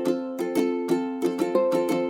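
Background music: a bright plucked-string tune, ukulele-like, with quick evenly spaced notes.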